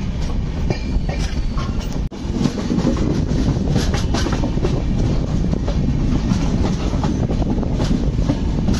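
Ranthambhore Express passenger coaches running along the track, heard from an open coach door: a steady loud rumble with the wheels clattering over the rail joints. The sound breaks off for an instant about two seconds in.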